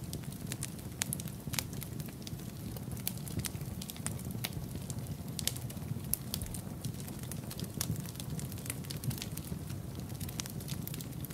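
Wood fire burning in a fireplace: a steady low rumble of the flames with frequent irregular crackles and sharp pops.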